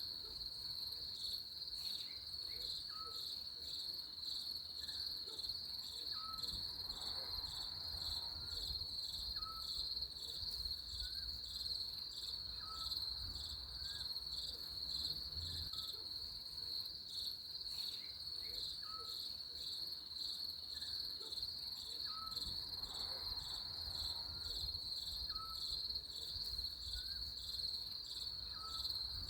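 A steady, high, pulsing insect trill of crickets or similar insects, with short faint chirps every second or two over a low rumble. The same sequence of chirps comes round again about every 16 seconds, as in a looped ambience track.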